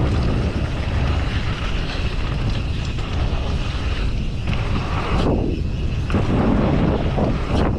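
Wind buffeting the microphone of a camera on a mountain bike riding down a trail, a steady heavy rumble mixed with tyre and trail noise.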